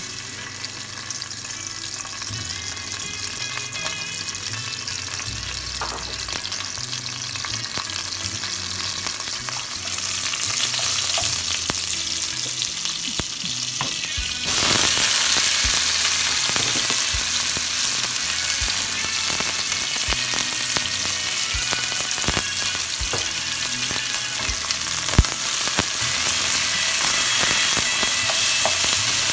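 Sliced garlic sizzling as it browns in hot oil in an aluminium pot, stirred with a wooden spoon. About halfway through, the sizzle jumps suddenly louder, and sliced onions are then frying and being stirred, with sharp knocks of the spoon against the pot.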